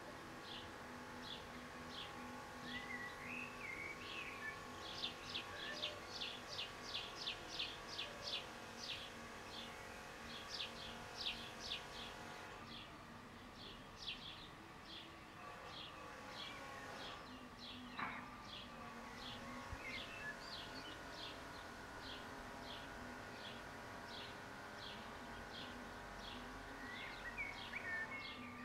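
A bird chirping over and over in short, high, falling notes, about two a second and quicker for a few seconds in the middle, with brief twittering from another bird near the start and the end. A faint steady hum runs beneath.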